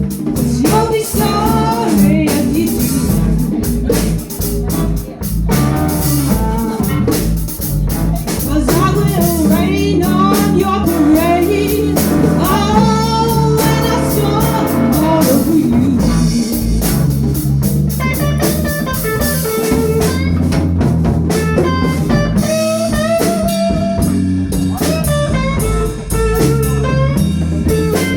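Live blues band playing: electric guitar, bass guitar and drum kit, with a vocalist singing over them.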